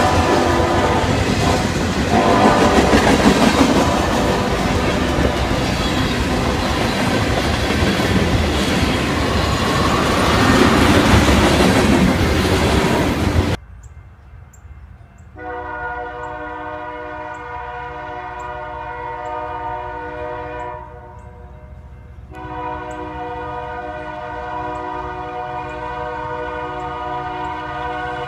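Loaded freight cars, covered hoppers, roll past close by with their wheels clacking over the rail joints. The sound cuts off suddenly about halfway through. Then an approaching diesel locomotive's air horn sounds two long, steady chords with a short gap between them.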